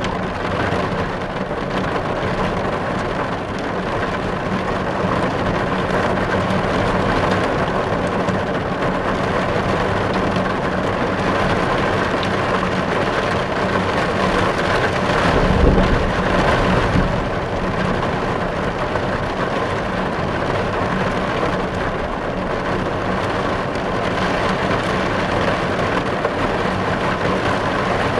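Heavy rain drumming steadily on car glass, heard from inside the car. About halfway through it swells louder for a moment with a brief low rumble.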